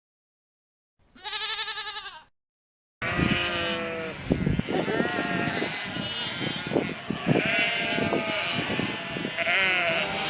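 A single sheep gives one wavering bleat about a second in. From about three seconds on, a flock of sheep bleats continuously, many calls overlapping, with scattered low thumps among them.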